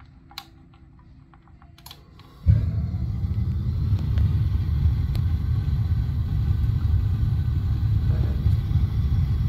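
A few faint clicks as the gas control knob is turned up. Then, about two and a half seconds in, the gas water heater's main burner lights off the pilot all at once and settles into a steady low rumble of burning gas.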